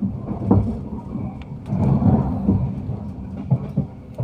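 Train running on rails heard from inside a passenger carriage: a steady low rumble, with a few sharp knocks from the wheels, about half a second in and twice near the end.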